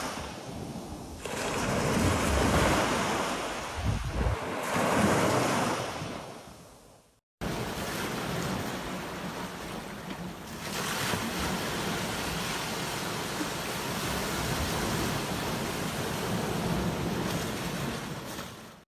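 Sea waves breaking and washing up a beach, with some wind noise on the microphone. One swell of surf builds and fades out about seven seconds in, then after a brief silence a steadier wash of surf carries on.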